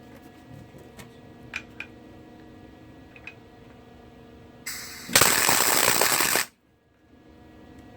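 A short arc-welding tack on the steel axle truss: past the middle a brief hiss leads into about a second and a half of loud, even crackling from the welding arc, which cuts off suddenly. A few light metallic clicks come before it.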